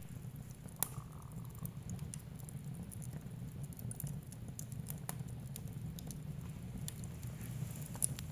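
Wood fire in a fireplace crackling: irregular sharp pops and snaps over a steady low rumble of the flames, with two louder pops, about a second in and near the end.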